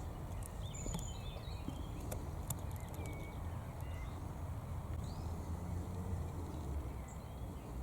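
Low rumble of wind and handling, with scattered twig-like clicks and rustling, and a few faint, short bird chirps.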